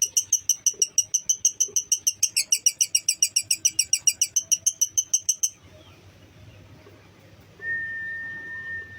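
Lovebird ngekek: a long, fast chattering trill of evenly repeated high chirps, about eight a second, dipping slightly in pitch partway and cutting off suddenly a little over halfway through. Near the end a single steady high tone, like a whistle, holds for about two seconds.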